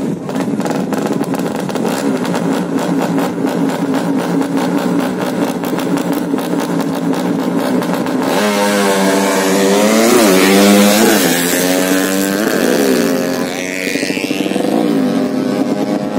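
Drag-racing underbone (bebek) motorcycle engines held at high revs, then launching about eight seconds in and accelerating hard through several quick upshifts, each a rising whine that drops back. Near the end the pitch falls away as the bikes run off.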